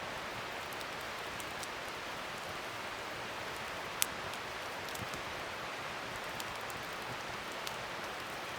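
Wood fire burning with a steady hiss and scattered small crackles, with one sharper pop about four seconds in.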